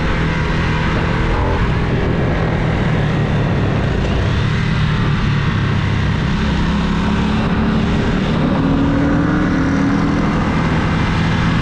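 Motorcycle engine running under way, with its pitch rising between about eight and eleven seconds in as it speeds up.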